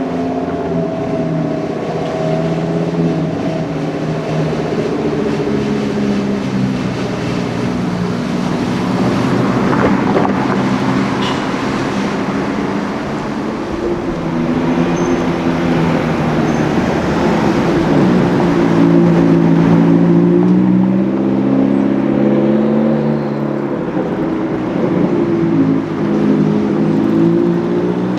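Performance car engine and exhaust running at low revs, the pitch stepping up and down as it is revved and driven off, loudest about two-thirds of the way through.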